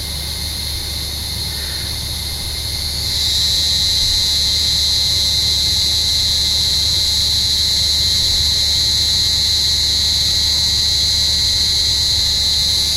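Cicadas buzzing in a steady high-pitched drone; about three seconds in the chorus swells louder and stays up.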